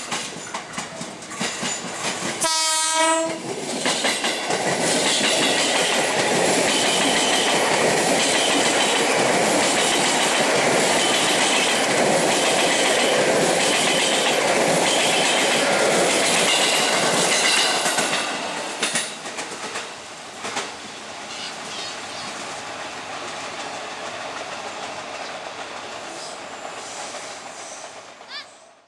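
KRL Commuter Line electric train giving one short horn blast a few seconds in, then passing close with loud wheel-on-rail noise and a regular clickety-clack over the rail joints, about once a second. The noise drops off at around eighteen seconds as the train moves away, then cuts off suddenly near the end.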